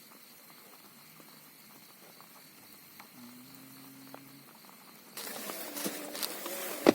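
Rain pattering on a tent, faint at first and then suddenly much louder and denser about five seconds in, with one sharp knock near the end.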